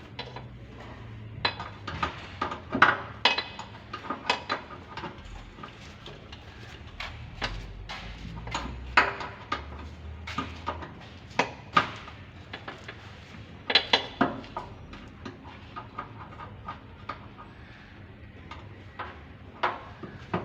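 Irregular metallic clinks and knocks of tools and parts being handled, at uneven intervals, over a low, steady hum.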